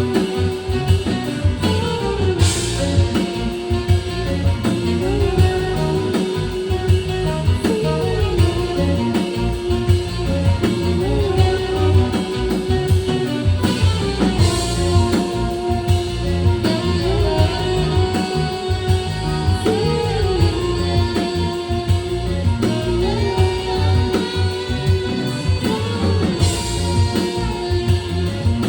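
Band music with guitar and drums: a lead line holds long notes that bend up and back every few seconds over a steady drum beat.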